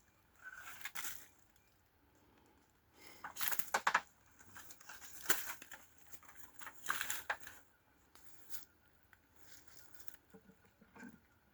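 Irregular bursts of rustling and scraping as a wooden beehive box is handled and searched, with the loudest stretch a few seconds in.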